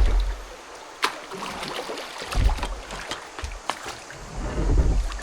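Kayak paddle strokes in calm water: a swell of splashing and dripping about every two seconds, with a couple of sharp knocks in between.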